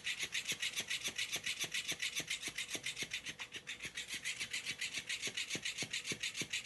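Fast, even rasping strokes, about seven a second, as of something scratching or rubbing on a rough surface.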